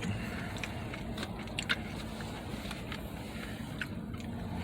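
Quiet eating: a few soft clicks and crunches of chewing and handling food, over a low steady hum.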